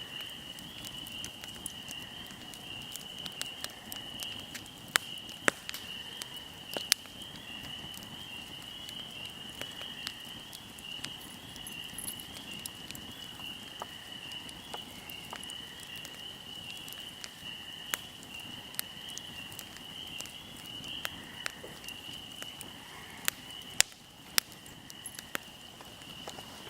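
Wood fire burning, with irregular sharp crackles and pops, a few of them much louder, over a low hiss. Behind it a steady high chirring of insects, likely crickets.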